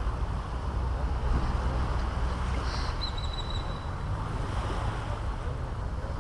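Caribbean Sea surf washing onto the beach, with wind rumbling on the microphone. A bird gives a brief high whistle about three seconds in.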